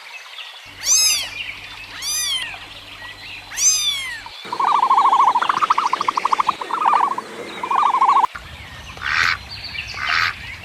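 A run of animal calls: first three separate calls that rise and fall in pitch, then several seconds of rapid chattering calls, then short hoarse calls, typical of ducks quacking, in the last two seconds.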